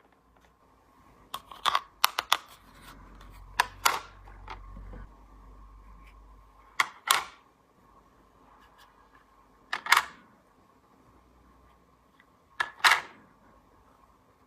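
Small plastic toy pieces clicking and clacking as they are handled, in short groups of one or two sharp clicks every few seconds.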